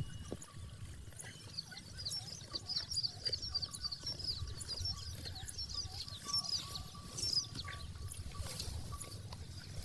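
Small birds chirping, many quick high chirps in rapid succession, thinning out about seven seconds in, over a steady low rumble.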